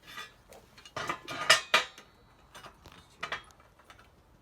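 Metal clinking and scraping in a few short, irregular bursts, the loudest cluster about a second in, as steel parts are handled.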